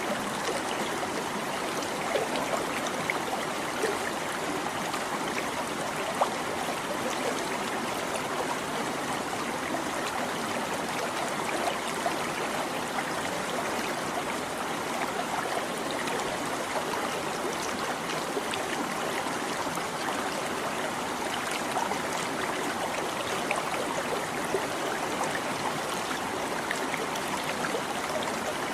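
A small stream babbling and trickling steadily over rocks, with little splashes scattered through it.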